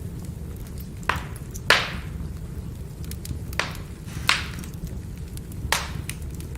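Burning firewood crackling, with a handful of sharp pops at irregular intervals over a steady low rumble of the flames. The loudest pop comes just under two seconds in.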